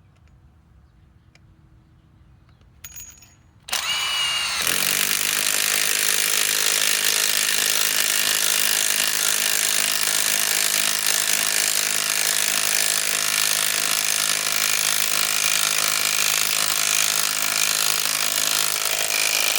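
Bosch GDS18V-330C cordless mid-torque impact wrench on an 8 Ah 21700 battery driving a 5-inch lag screw into wood. It spins up almost four seconds in and hammers steadily for about fifteen seconds, then stops suddenly.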